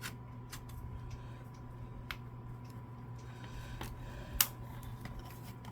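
A few sharp small clicks and taps of tools and plastic from prying at an Xbox One controller's plastic shell, the loudest about four and a half seconds in, over a steady low hum.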